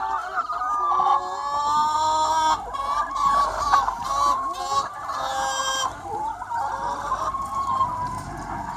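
Large free-range chicken flock clucking and calling, many hens' voices overlapping without a break.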